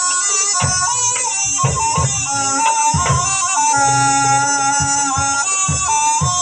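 Javanese jaranan accompaniment: a reedy, wavering wind melody, typical of the slompret shawm, plays over repeated hand-drum strokes.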